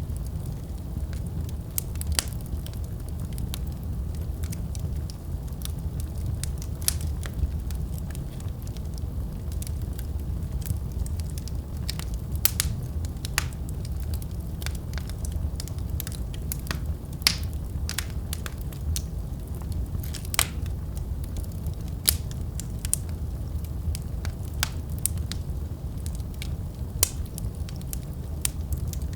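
Wood fire in a fireplace crackling and popping over a steady low rumble of flames. The sharp pops come at irregular moments, a few strong ones standing out among many small crackles.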